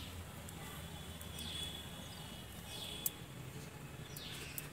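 Faint outdoor background with a steady low hum and a few sharp clicks, broken by three short falling bird chirps spread over the few seconds.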